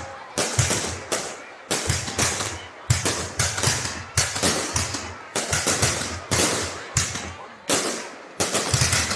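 Fireworks going off in quick succession: a sharp bang roughly every second, each trailing off in a crackle and echo.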